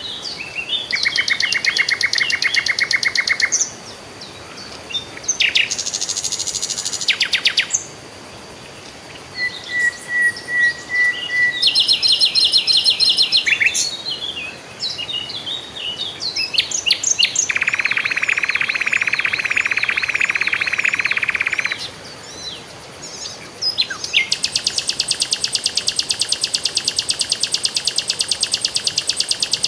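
Songbirds singing in turns: fast, even trills and chattering phrases with short pauses between them, a thin run of short whistled notes just before the middle, and a long rapid trill from near the end.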